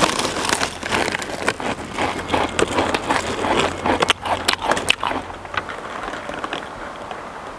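Loud open-mouthed chewing and lip-smacking: a rapid, irregular run of clicks that thins out after about five seconds.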